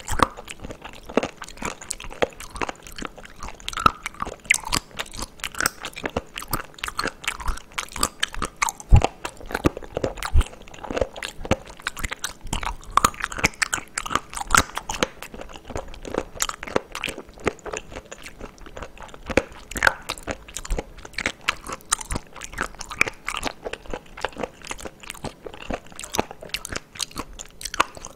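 Close-miked chewing of a mouthful of raw whole abalone: a dense, irregular run of sharp wet clicks as the firm flesh is chewed, going on without a break.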